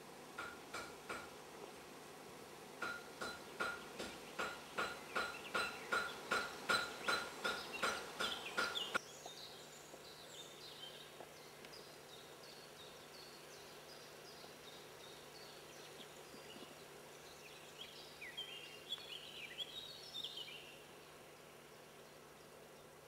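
Birds calling in a forest: a run of about twenty short, evenly spaced notes, about three a second, growing louder before stopping abruptly about nine seconds in, then scattered soft high chirps.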